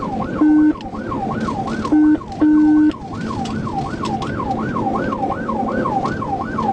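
Police car siren on a rapid yelp, its pitch sweeping up and down about three times a second, over road and engine noise at high speed. In the first three seconds it is cut by three short, loud, steady low tones.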